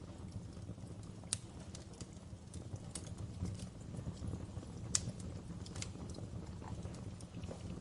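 Wood fire crackling in a fireplace: a steady low rumble with irregular sharp pops and snaps, the loudest pop about five seconds in.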